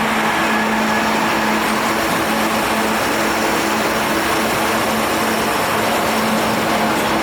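BNSF diesel freight train passing close by: a steady, loud rumble with a steady engine hum over it.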